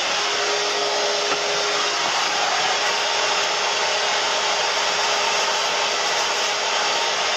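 A steady, unbroken rushing noise from a machine used in air-conditioner cleaning, running at one level throughout.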